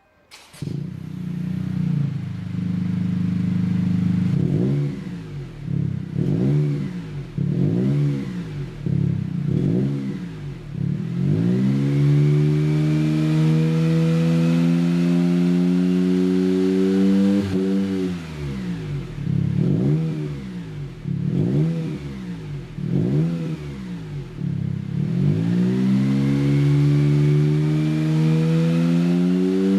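Exhaust note of a Honda JF3 N-BOX turbo's 658 cc three-cylinder engine through a stainless full-back aftermarket exhaust with a 100 mm tail. The engine comes in about half a second in and idles briefly, then is blipped repeatedly. It rises in a long steady climb in revs held for several seconds, gets a few more blips, and climbs again near the end.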